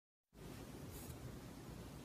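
Near silence: faint room tone that begins just after the start, with a brief soft hiss about a second in.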